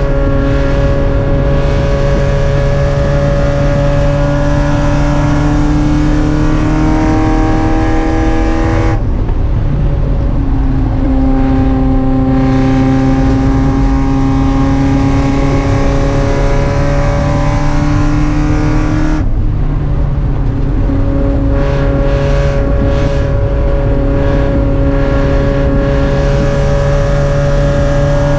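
Mazda Miata race car's four-cylinder engine running hard, its note climbing slowly. The note breaks and drops twice, about nine and nineteen seconds in.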